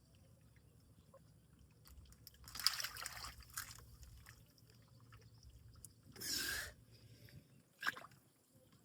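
A turtle splashing at the water's surface beside a boat: a longer splash and slosh about two and a half seconds in, another around six seconds, and a short splash near the end.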